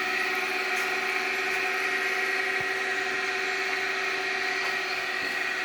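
Steady mechanical hum with several constant tones, like a running motor.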